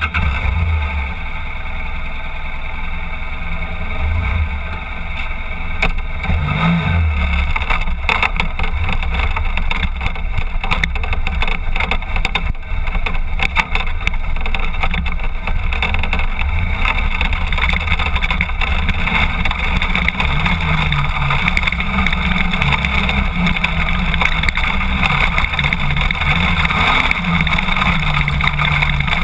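BMW F800GS motorcycle's parallel-twin engine running under way on a gravel track, its note rising and falling with the throttle, over a steady rush of wind and tyre noise.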